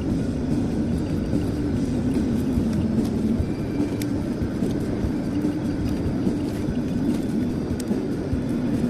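Steady road and engine drone heard inside a moving car's cabin, with a few faint ticks.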